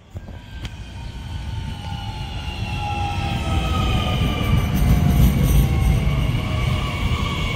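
Francilien electric multiple unit running slowly past along the platform. Its traction motors give a whine of several tones that slowly falls in pitch as the train slows, over a rumble of wheels on rail that builds to a peak about five seconds in.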